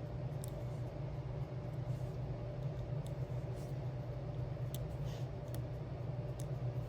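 A steady low hum, with about five faint, light ticks scattered through it, the sound of a diamond-painting pen tapping resin gems onto a sticker.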